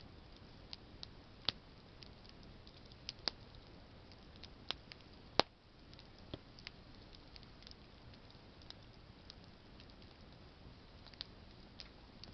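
Wood campfire burning, its branches crackling with irregular sharp pops over a low steady hiss; the loudest pop comes about five seconds in.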